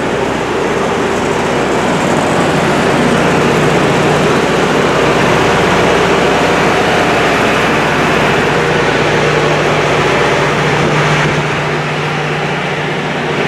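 A heavy engine, most likely a railway locomotive, running steadily with a continuous low hum, easing off slightly near the end.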